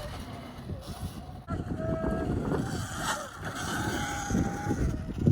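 Sur-Ron electric dirt bike being ridden: a motor whine that shifts in pitch over rumbling wind and tyre noise.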